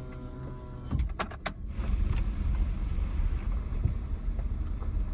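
A car driving slowly, heard from inside the cabin: a steady low engine and road rumble. A faint hum is heard in the first second, a few sharp clicks come about a second in, and the rumble grows a little louder from about two seconds in.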